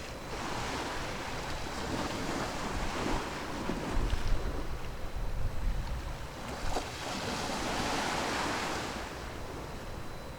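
Sea waves washing in two slow swells of hiss, with wind rumbling on the microphone underneath.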